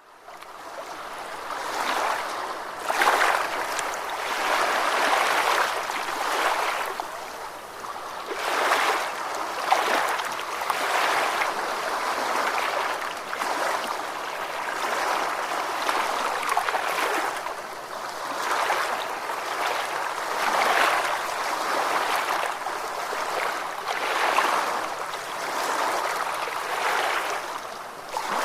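Ocean waves washing in, a continuous rush of water that swells and eases every couple of seconds, fading up from silence at the start.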